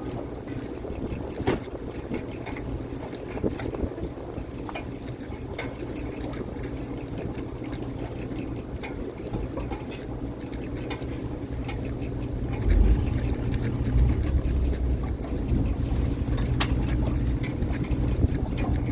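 A fishing boat's engine running steadily, with water sloshing and scattered knocks and clicks. About 13 seconds in, the low rumble grows louder and stays up.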